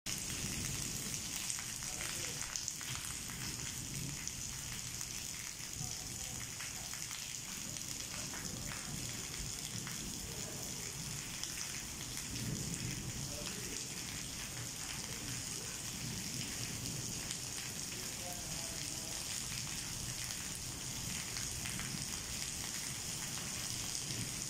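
Heavy rain falling steadily on wet paving and tree leaves: a continuous hiss flecked with the patter of individual drops.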